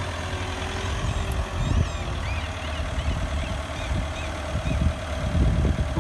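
Truck engine running steadily with a low rumble, with some faint high chirps about two seconds in.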